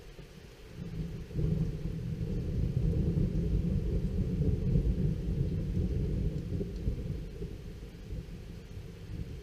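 Rolling thunder from a thunderstorm: a deep rumble that builds about a second in, holds strongly for several seconds, then slowly fades.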